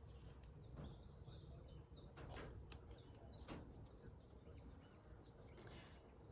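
Faint birdsong in the background: a wild bird repeating short, high chirps that slide downward, several a second, with a few soft rustles in between.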